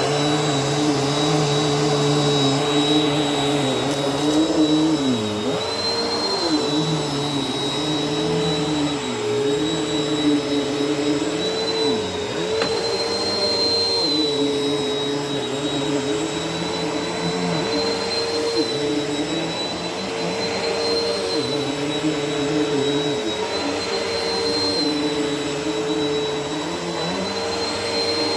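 Vacuum cleaner motor running steadily on carpet, with a high whine over a lower hum. The hum dips briefly in pitch every few seconds and then recovers.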